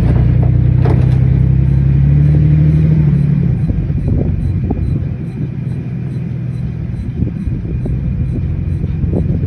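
Pickup truck running, heard from its bed: a low rumble with a steady low hum, loudest for the first three seconds or so and then easing, with scattered knocks. This is the grinding noise the owner is trying to capture.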